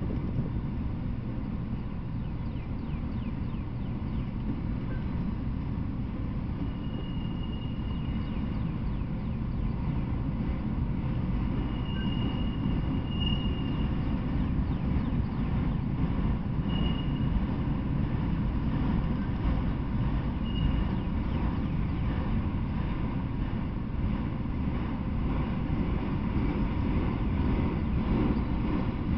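Freight train of enclosed autorack cars rolling past: a continuous low rumble of wheels on rail, with a few brief faint high squeals.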